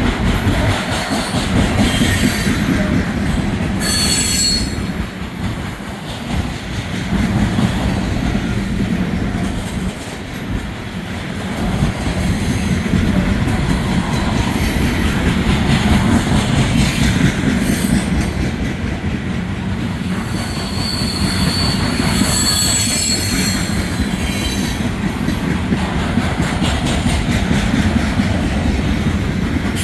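Freight train cars rolling past with a steady rumble of wheels on rail. Brief high-pitched wheel squeals come about four seconds in and again around twenty-two seconds.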